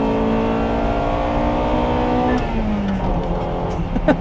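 Honda Integra Type R's high-revving 1.8-litre VTEC four-cylinder pulling under acceleration, heard from inside the cabin with its intake sound to the fore and a quiet stock exhaust; the revs climb steadily and then drop sharply about two and a half seconds in, running on at lower revs.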